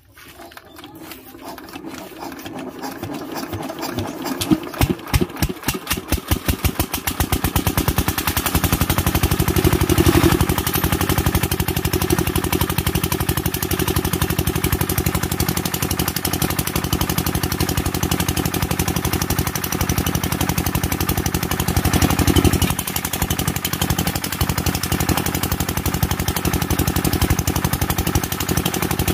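Single-cylinder Kirloskar diesel engine being started: slow separate strokes quicken and grow louder over the first several seconds as it catches, then it settles into steady running, swelling louder briefly about ten seconds in and again about twenty-two seconds in.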